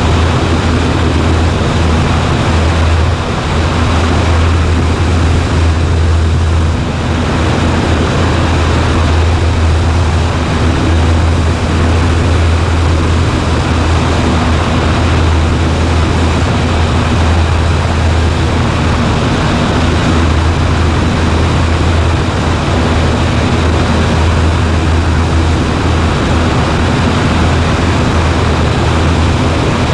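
Cessna 140A's engine and propeller running steadily: a constant low drone with an even rush of air noise, heard from inside the cockpit.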